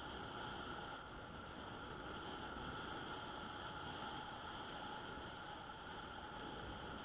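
Yamaha NMAX 155 scooter's single-cylinder engine running steadily, with a steady whine over a low rumble.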